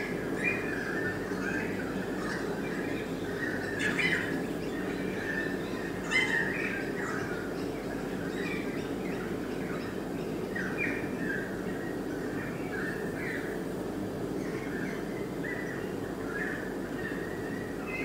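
Birds chirping and squawking: many short high calls one after another, with two louder, sharper calls about four and six seconds in.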